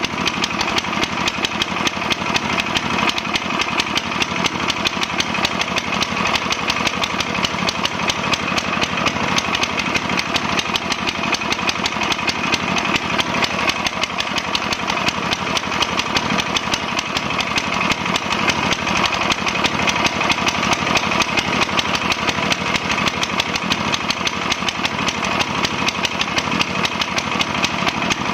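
Rotovator's small gasoline engine running steadily at a constant speed, a fast even firing beat with no revving up or down.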